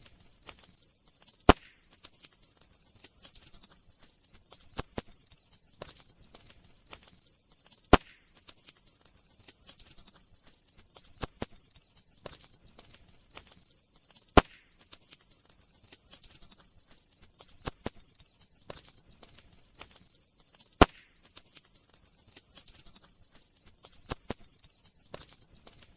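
Campfire crackling: scattered sharp snaps and pops over a soft hiss, with one louder pop at even intervals of about six and a half seconds.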